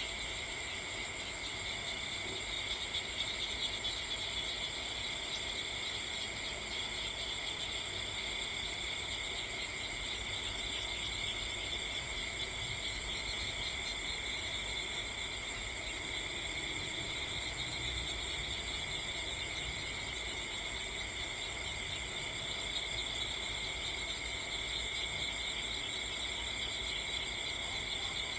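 Steady, unbroken chorus of crickets and other night insects, a continuous high-pitched trilling with no pauses, over a faint low rumble.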